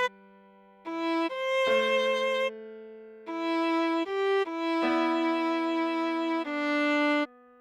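Viola playing a slow melody of single sustained bowed notes, about seven of them with short breaks, over a lower held note. It stops shortly before the end.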